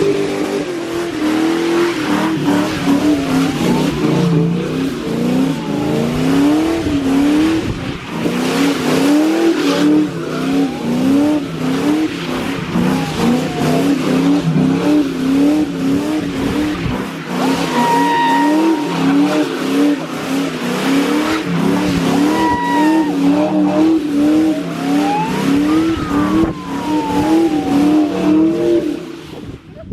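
New Edge Ford Mustang engine revving hard, its pitch climbing and falling again about once or twice a second in a steady rhythm, with brief sliding tyre squeals over it.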